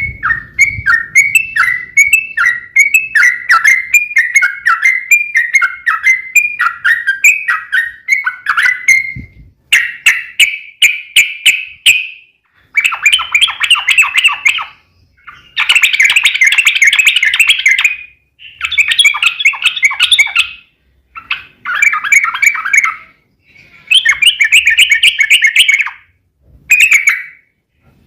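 Yellow-vented bulbul (trucuk) song played loud. The first nine seconds or so are a quick run of short down-slurred whistled notes. After that come bursts of rapid chattering trills, each a second or two long, with brief pauses between them.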